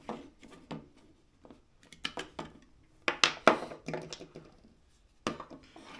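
Small plastic clicks, taps and rattles of a Blink outdoor camera's cover and AA batteries being handled and pulled out, loudest about three seconds in.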